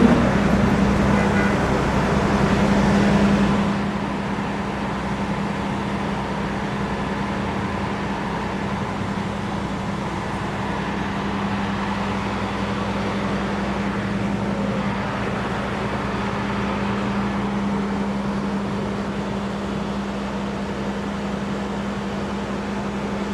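Steady engine hum with a constant low drone. For the first few seconds it is louder, with a rushing noise over it, then it settles to an even level.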